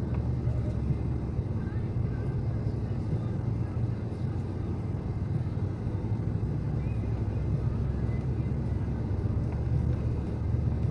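Snowblower's small engine running steadily, a constant low drone with no change in pitch.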